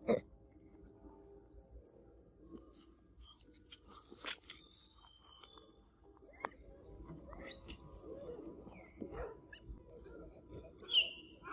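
Outdoor ambience of scattered short bird chirps with light rustles and clicks. There is a brief louder sound right at the start and a cluster of brighter chirps near the end.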